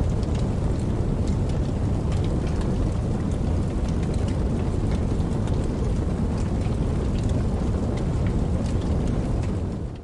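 Steady rain: a dense, even rush of noise with scattered small drop ticks. It cuts off abruptly right at the end.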